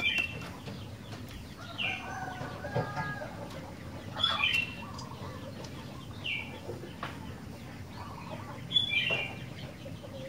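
Sooty-headed bulbul (kutilang) calling: short, bright, falling whistled phrases repeated about every two seconds, with softer, lower chattering notes between them.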